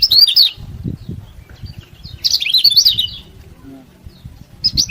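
Kecial kuning, a white-eye, giving short bursts of quick, high chirps. There are three bursts: one at the start, one about two seconds in and one near the end.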